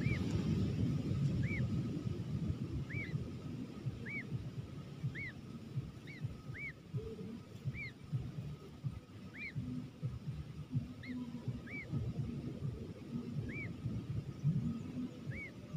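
A bird calling over and over: short arched notes, high and clear, about one a second at uneven intervals. A low crackling rumble runs underneath, strongest in the first couple of seconds.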